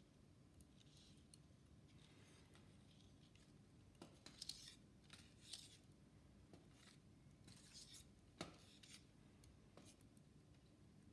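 Faint handwork sounds: a few sharp clicks and short scraping strokes, loudest in the middle stretch, over near-silent room tone.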